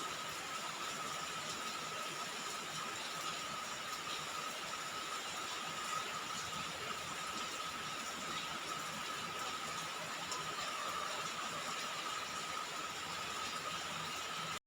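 Steady rain falling on a roof, an even continuous patter and hiss, with a faint steady high tone running underneath.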